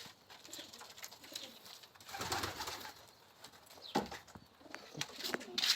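Domestic pigeons cooing softly in a loft, with a few sharp clicks in the second half.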